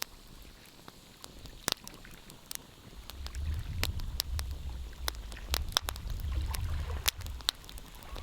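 Wood fire crackling, with irregular sharp pops and snaps of burning logs over a faint hiss. A low rumble comes in about three seconds in and fades near the end.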